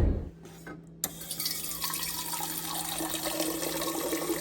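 Steady rush of running water, starting suddenly about a second in.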